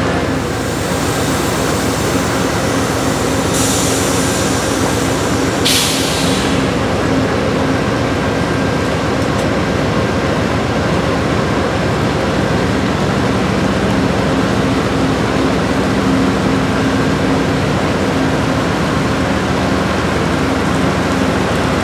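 Amtrak passenger cars rolling slowly, a steady rumble of wheels on rail with a low hum. Two short hisses of air come a few seconds in.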